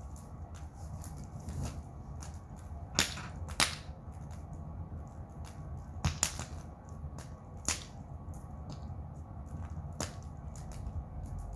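Wood bonfire crackling, with several sharp loud pops of burning firewood over a low steady rumble.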